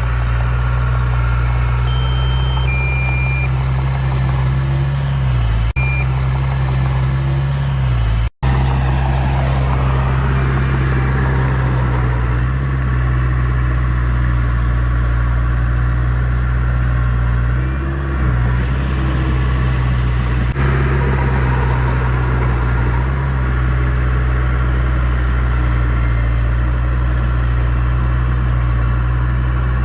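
Heavy earthmoving machine's diesel engine running steadily at low revs, with a few short high tones in the first few seconds. The sound cuts out for an instant about eight seconds in.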